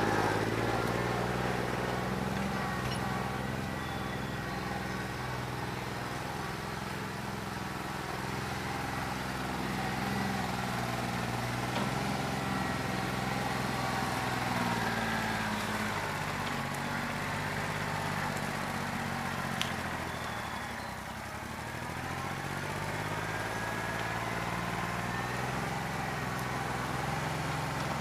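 New Holland 1320 compact tractor's diesel engine running, its speed sagging and picking up again several times, with a dip a little past two-thirds of the way through; the engine has a bad injector.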